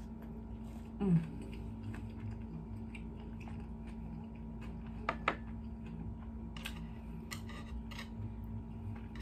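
Eating sounds as sushi is chewed with chopsticks: soft chewing, with two sharp clicks just after five seconds in and a few fainter clicks later, over a steady faint hum.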